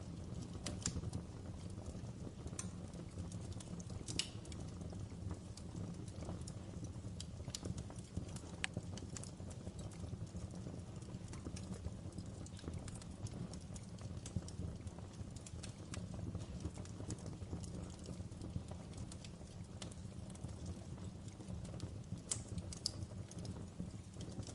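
Wood fire burning in a fireplace: a steady low rumble with scattered crackles and pops, a few each second.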